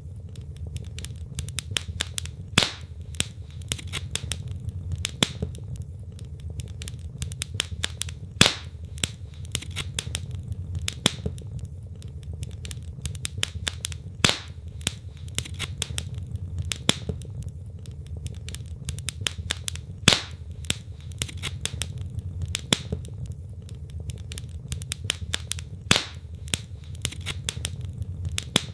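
Wood fire burning in a fireplace: logs crackling constantly with small sharp snaps, and a louder pop about every six seconds, over a steady low rumble of the flames.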